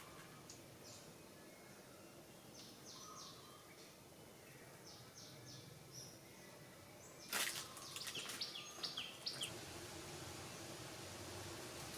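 Faint outdoor background with short, high-pitched chirps. About seven seconds in there is a sudden sharp noise, followed by a quick cluster of chirps and clicks.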